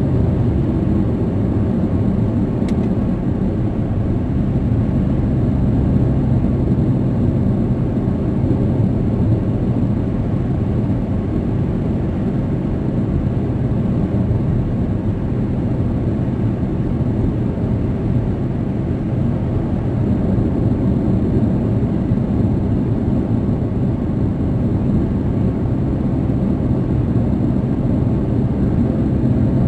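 Car cabin noise while cruising at highway speed: a steady, even low rumble of tyres, engine and wind.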